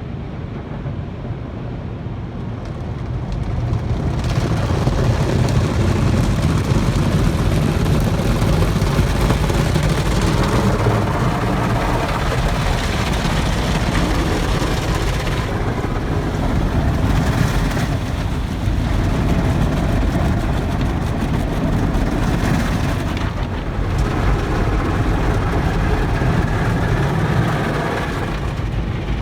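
Automatic car wash machinery working over a car: a steady, loud rushing noise that swells about four seconds in and holds, with small dips.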